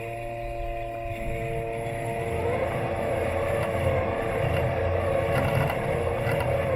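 Robot lawn mower's electric motors whining steadily, heard from on board the machine. About two seconds in, a rougher rushing noise rises over the whine and it grows louder.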